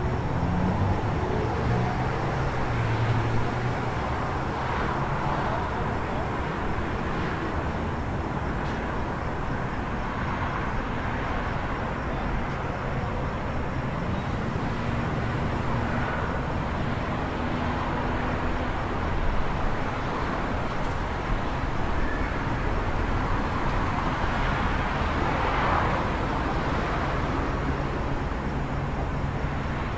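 City street ambience: a steady wash of road traffic with cars passing now and then over a low hum.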